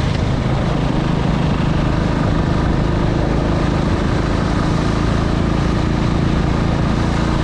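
Motorcycle running steadily on the move, with heavy wind rumble on the microphone.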